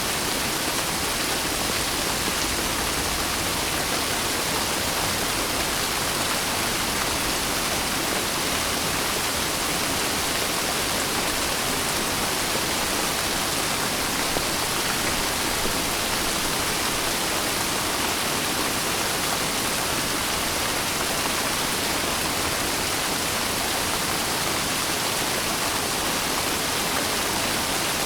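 Steady, dense rainfall: an even hiss of rain with no distinct drops, lull or thunder.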